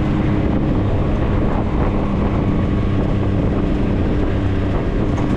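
Maverick side-by-side's engine running steadily at a constant speed while driving, a steady hum with wind buffeting the microphone.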